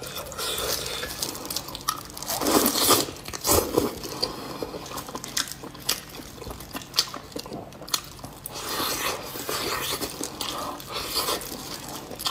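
A person chewing braised beef hoof close to a clip-on microphone: irregular smacking, biting mouth sounds with a few sharp clicks.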